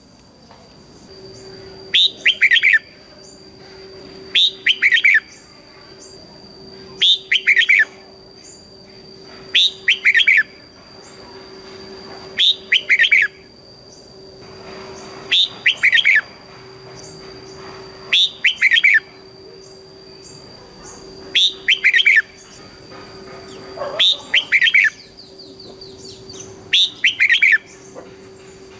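Red-whiskered bulbul singing its short, loud whistled song phrase, repeated about every two and a half seconds, with faint steady high tones underneath.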